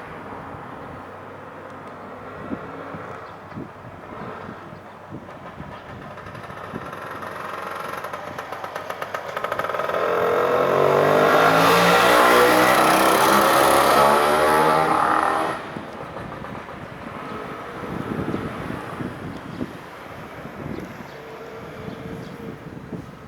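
JR Freight EF510 electric locomotive hauling a container freight train past at low speed after departure. The sound builds slowly, then a fast run of wheel clicks leads into a loud few seconds of the locomotive's whining motor and inverter tones, which drop away abruptly about 15 seconds in. Irregular knocks and clatter from the container wagons' wheels follow.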